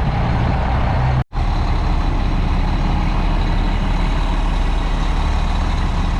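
Heavy truck engine running steadily, cut off for an instant about a second in.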